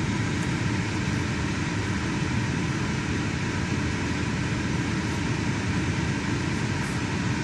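Lincoln car's engine idling, a steady, even hum with no distinct knocks or stumbles.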